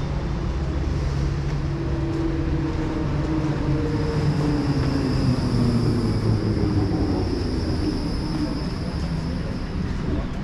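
Train moving through a station: a steady low rumble with humming tones that slide down in pitch, joined about four seconds in by a high steady whine or squeal.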